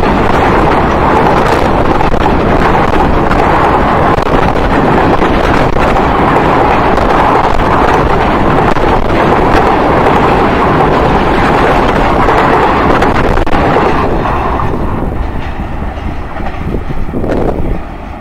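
Passenger express train running past close by on a viaduct: a loud, steady rolling rumble and rattle of coach wheels on the rails, fading in the last few seconds as the train draws away.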